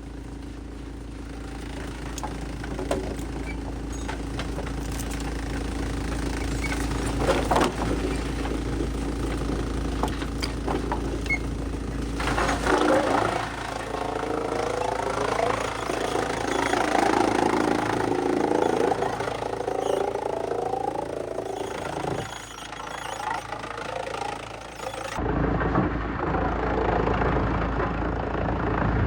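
Heavy-duty wood shredder running: a steady low machine drone with scattered knocks and clatter. Through the middle there is a louder, wavering grinding stretch of about ten seconds as the machine works on the wood.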